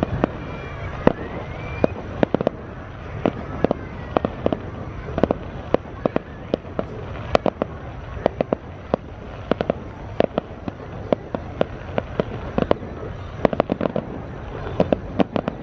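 Fireworks display: a rapid, irregular series of sharp bangs from bursting fireworks.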